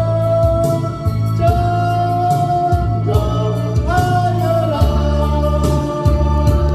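Gospel song: a singer holding long notes over organ accompaniment with a steady bass and drum beat.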